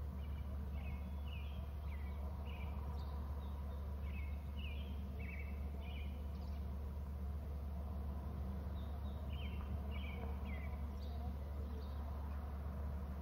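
A steady low hum with a bird calling in short, falling chirps: a run through the first half, and a shorter run about ten seconds in.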